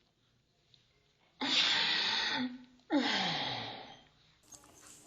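Horse giving two long, breathy groans one after the other, each sliding down in pitch, the first about a second and a half in and the second about three seconds in.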